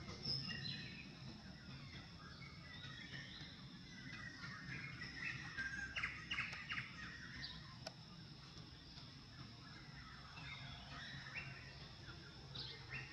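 Birds chirping in the surrounding forest, with a quick run of chirps about halfway through and a few more near the end, over a faint steady high hum.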